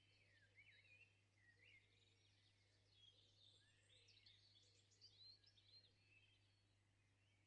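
Near silence: faint, quick high chirps that sound like birds, over a low steady hum.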